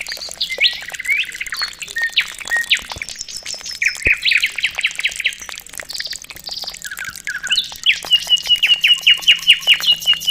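Birds chirping and calling, many short overlapping notes; from about eight seconds in one bird repeats a sharp note about five times a second.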